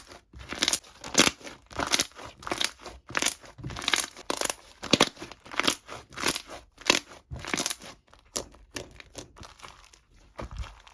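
Repeated crinkling and crumpling, in short bursts about twice a second, which thin out and grow quieter over the last few seconds.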